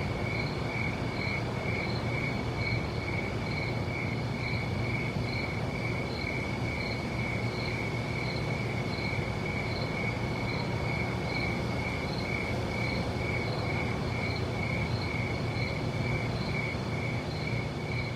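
A cricket chirping steadily, about two chirps a second on one high note, over a steady low rumble.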